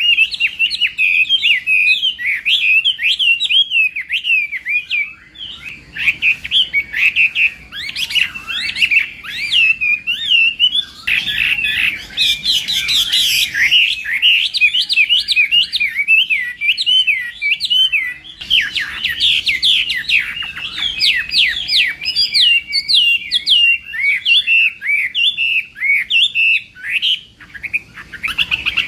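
Chinese hwamei singing a loud, rapid, varied warbling song of quick whistled notes, in long phrases with brief pauses between them.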